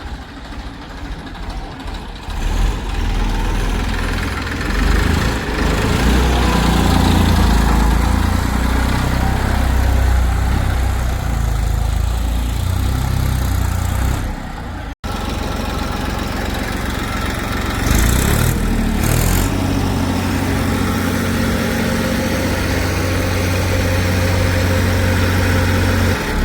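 Heavy diesel engine running steadily, growing louder a couple of seconds in. The audio drops out suddenly for an instant about halfway through, then the engine continues steadily.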